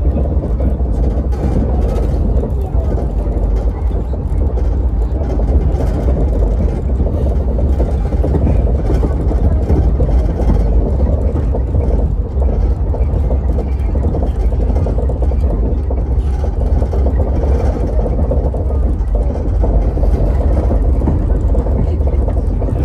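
Passenger train running, a steady low rumble with no sudden events, with faint voices under it.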